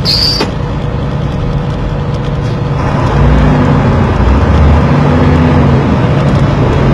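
Vehicle engine and road noise, growing louder about three seconds in, with a brief high beep at the start.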